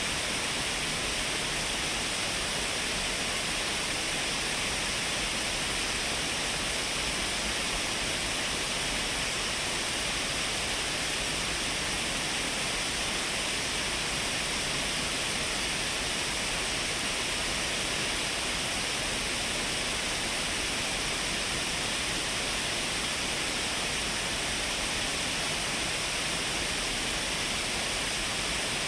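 Shiraito Falls, many thin streams of water pouring down a wide cliff, making a steady, even rush of falling water with a bright hiss and no breaks.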